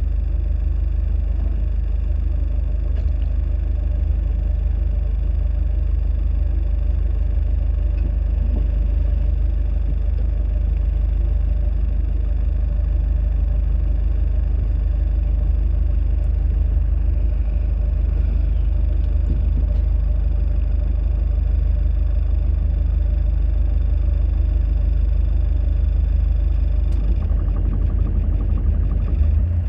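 Boat engine running steadily under way, a deep even rumble with faint steady whining tones above it.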